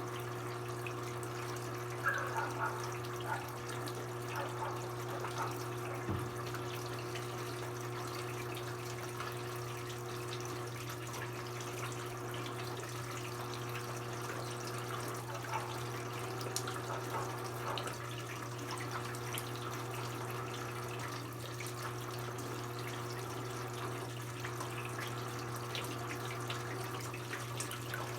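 Brastemp BWK17 17 kg washing machine with water running and splashing inside it, small drips and splashes over a steady low hum.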